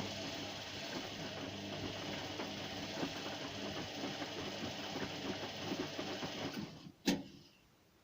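Whirlpool WNQ66A washing machine running with an irregular rattling and clattering over a low hum: the noise the owner is complaining of. It stops about seven seconds in, with one sharp click just after.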